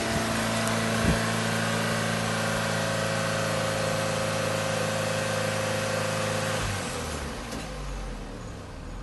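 Opel Corsa Z12XEP 1.2-litre four-cylinder petrol engine idling steadily, then switched off about two-thirds of the way through, leaving a faint low rumble. This is a demonstration run of a used engine before removal.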